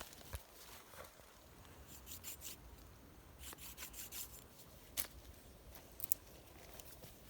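Scattered light scraping and clicking of small wooden sticks being cut and handled, with a sharper click about five seconds in and another about a second later.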